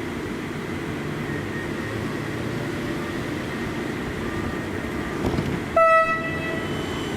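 Suburban train running with a steady low rumble, and one short, loud horn blast nearly six seconds in.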